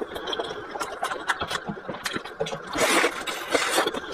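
Close-miked chewing and lip-smacking while eating a soft steamed bun, with many small mouth clicks and a louder breathy rush about three seconds in.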